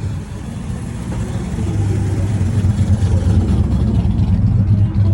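A car engine running with a steady low rumble, growing louder about a second and a half in.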